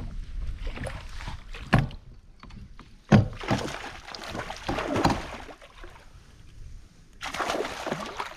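Water sloshing and splashing against a kayak hull, with two sharp knocks about two and three seconds in.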